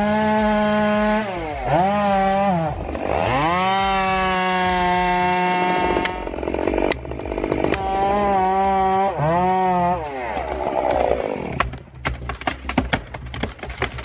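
Two-stroke chainsaw running at full throttle, its pitch dropping sharply several times as it bogs down in the cut and then climbing back. After about ten seconds the steady engine tone gives way to a rougher, crackling noise.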